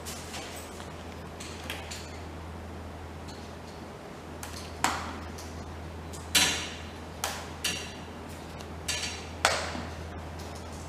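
Scattered metallic clinks and knocks, about six in the second half with brief ringing, from tools and metal parts being handled during air-conditioner replacement work, over a steady low hum.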